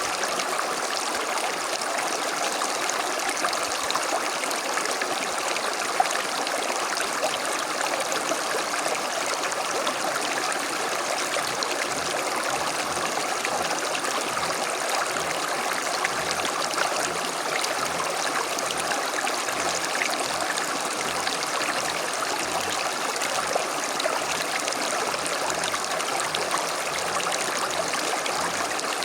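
A small creek flowing steadily over stones: continuous rushing and trickling water.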